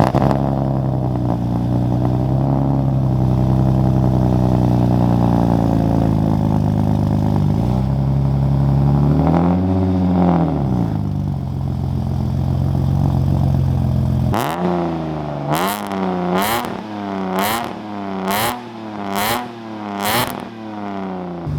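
BMW E36 engine through an aftermarket exhaust with mufflers deleted: idling, one slow rev up and back down about halfway through, then about seven quick throttle blips in a row. The exhaust note is way too raspy.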